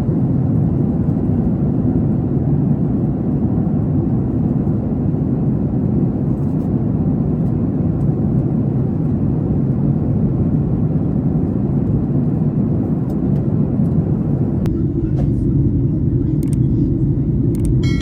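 Steady rumble of a Boeing 737 MAX 8's cabin in flight, the airflow and engine noise heard from a passenger seat. About fifteen seconds in, the upper hiss drops away and leaves a duller rumble.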